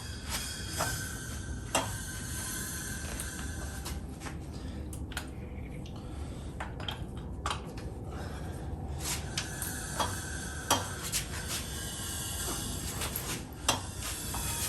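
Scattered metallic clicks and clinks of a wrench on the crankshaft as a Pontiac V8 engine is turned over by hand with its spark plugs in, checking that it is not seized.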